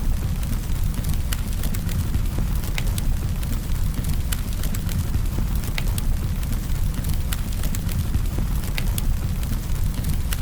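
Campfire burning: a steady low rumble of flames with frequent sharp crackles and pops from the burning wood at irregular moments.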